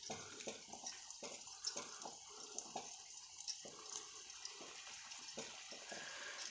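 Gulab jamun dough balls deep-frying in hot oil: a faint, steady sizzle with many small irregular crackles and pops.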